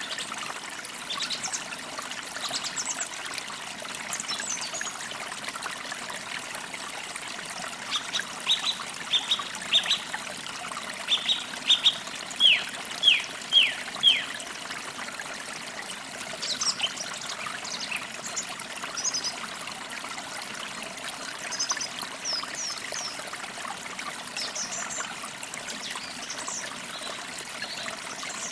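Forest stream trickling steadily, with songbirds calling over it. About eight seconds in, one bird gives a run of short, loud, downward-sweeping whistled notes for several seconds; after that there are scattered thin, high chirps.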